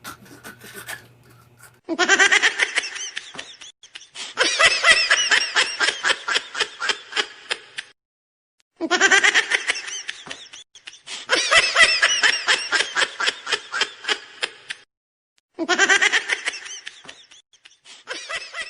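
High-pitched laughter in long runs of rapid 'ha' pulses, in three stretches that start and stop abruptly, with short gaps about eight seconds and fifteen seconds in.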